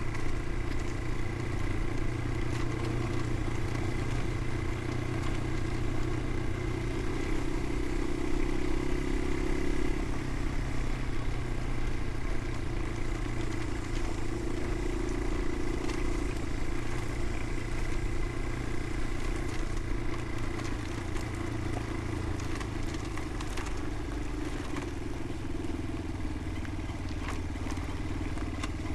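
Motorcycle engine running steadily under way, its pitch stepping up and down a few times, with occasional light clatter.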